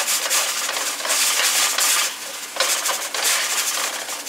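Spices sizzling in hot oil in a metal pot as a spatula stirs and scrapes them round the pan, in waves with a short lull about halfway through.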